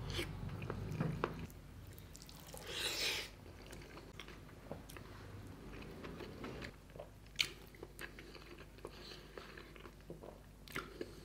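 Close-miked eating sounds of a person chewing and biting mouthfuls of rice and curry eaten by hand: soft wet smacks and scattered clicks, with one longer, louder noise about three seconds in.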